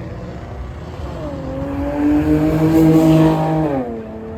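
Car engine revving: the pitch climbs from about a second in, holds high and loud for about a second and a half, then drops quickly back to idle near the end.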